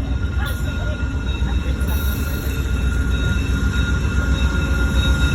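VIA Rail passenger train rolling through, its wheels and cars giving a heavy, fluttering rumble with a steady high-pitched squeal over it.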